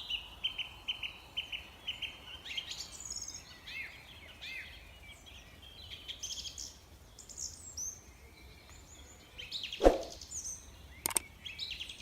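Wild birds chirping and singing: a rapid trill of repeated notes in the first two seconds, then many short, arching chirps over faint outdoor background noise, with one short, louder sound about ten seconds in.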